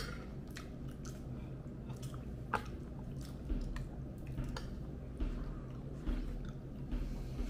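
Close-up chewing of chili cheese tater tots, with wet mouth clicks and smacks, one sharper click about two and a half seconds in, and a few dull low thumps, over a faint steady low hum.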